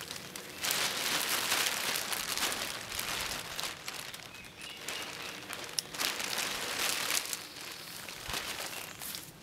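A thin DIY rain tarp crinkling and rustling as it is handled, louder and softer by turns.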